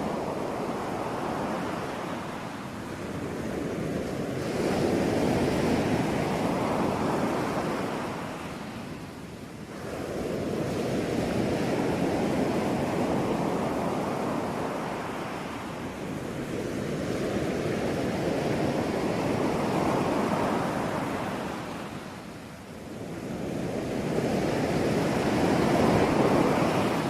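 Ocean surf: waves rolling in and washing back, swelling and fading in slow surges several seconds apart.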